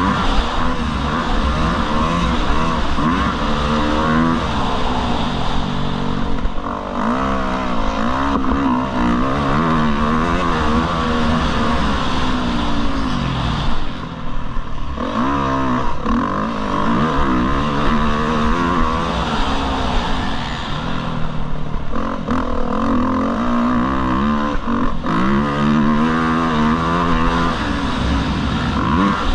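Motocross bike engine being ridden hard, its note rising and falling again and again as the throttle is opened and closed through the gears, with a brief drop about halfway through.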